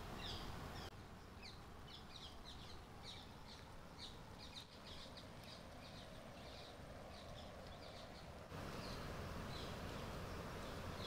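Small birds chirping in many short, high calls over a steady background hiss; the hiss drops about a second in and comes back near the end.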